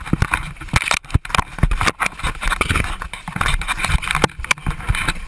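Loud, jumbled knocking, clattering and scraping inside a small aircraft's cabin during a crash-landing into water.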